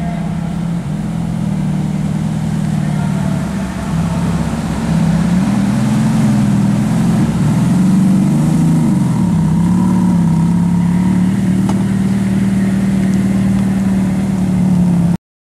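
Ferrari F430's V8 engine idling steadily, with one brief rise and fall in engine speed about eight seconds in.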